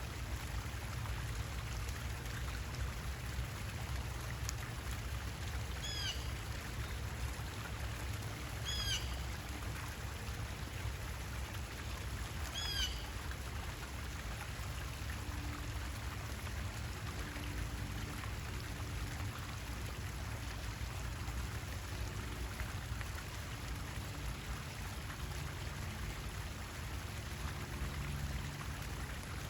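Steady running water, with a bird giving a short call three times, about six, nine and thirteen seconds in.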